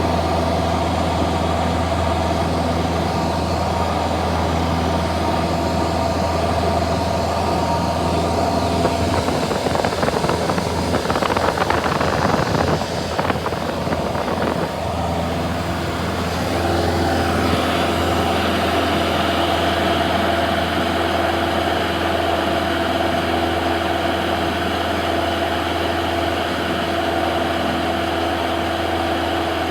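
Cessna 172 piston engine and propeller running with a steady drone. There is a noisier stretch around the middle, and the engine's tone changes slightly a little past halfway.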